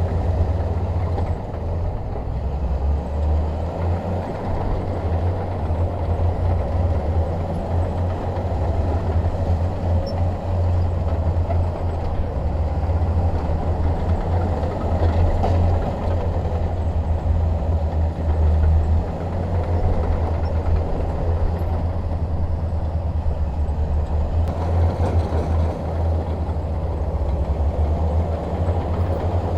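Bulldozer's diesel engine running steadily under load, a continuous deep hum that rises and falls slightly in loudness.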